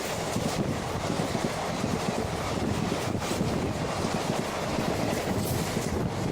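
Express passenger train running through the station at speed without stopping: a steady rushing rumble of wheels on rail, with wind buffeting the microphone.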